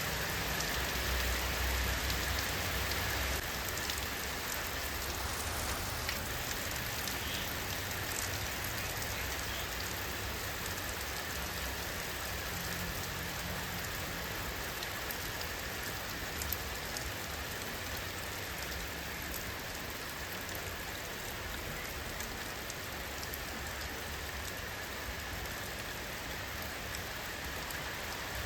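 Steady rainfall: an even hiss of rain with scattered drops pattering on surfaces, slightly heavier with a low rumble in the first few seconds.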